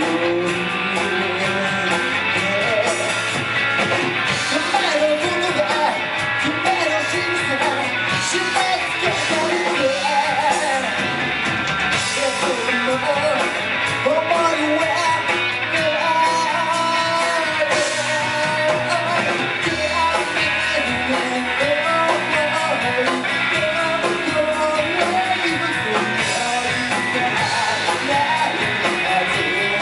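Live rock band playing, with electric guitar and singing over a steady full band.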